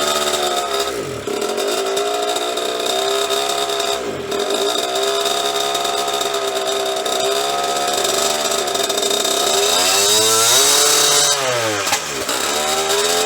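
A 1998 KTM 50's small two-stroke single-cylinder engine running on the throttle. Its revs sag sharply about a second in, again about four seconds in and near the end, and it revs higher around ten seconds in. The engine won't stay running, which the owner thinks could be the carburetor not getting enough fuel.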